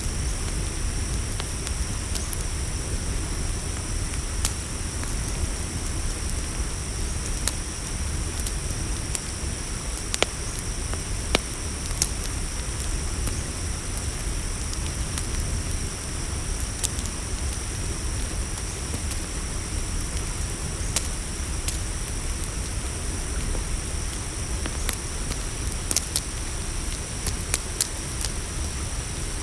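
Campfire crackling, with sharp pops every few seconds over a low steady rumble, under a steady high-pitched chorus of crickets.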